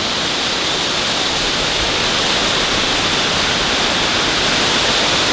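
Waterfall, water pouring and splashing in a loud, steady rush.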